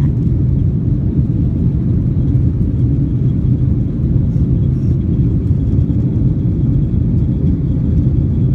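Boeing 737-800 jet engines at takeoff power, heard from inside the cabin as a steady, loud low rumble with a faint high whine above it.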